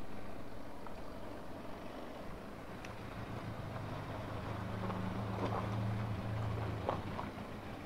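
Motorcycle engine running low and quiet while the bike rolls at walking pace, a steady low hum that firms up about halfway through, with a few faint light clicks.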